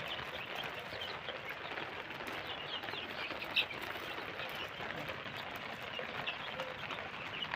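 A flock of desi chickens chirping and peeping: many short, high chirps scattered over a steady background hiss, with one louder chirp about three and a half seconds in.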